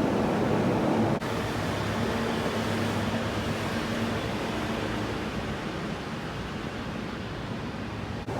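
Steady mechanical rumble with a low hum, broken by a sudden cut about a second in.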